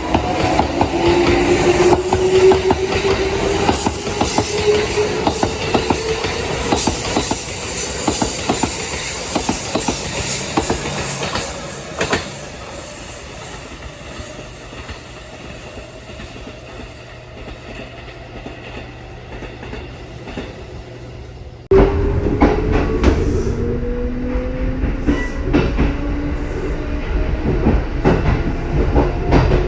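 Kintetsu 1620-series electric train pulling away, its VVVF inverter motor whine rising steadily in pitch over the clacking of wheels on rail joints. About halfway through it fades to a low rumble. About 22 s in the sound jumps back abruptly and a new rising whine begins.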